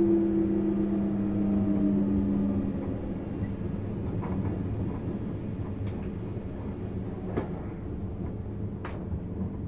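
Interior running sound of a JR East 651 series electric train: a whine that falls slowly in pitch and fades out about three seconds in, over a steady rumble of the car on the rails. Near the end come three sharp clicks about a second and a half apart.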